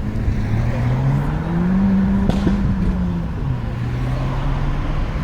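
A car engine revving once: its pitch climbs for about two seconds, falls back a little past the middle, then runs on steadily.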